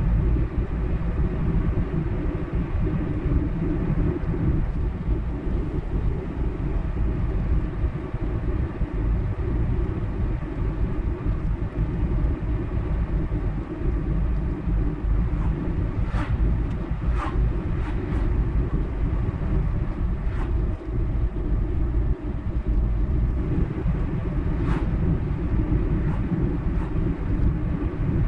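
Car driving along a highway: steady low rumble of tyres and engine. A few brief ticks come in the second half.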